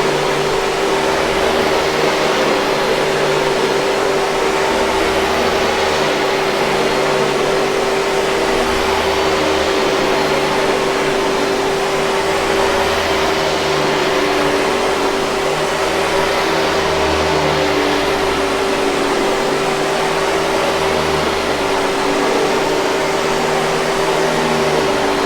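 Hoover 5000 Series canister vacuum cleaner running steadily: an even rush of air with a constant hum tone.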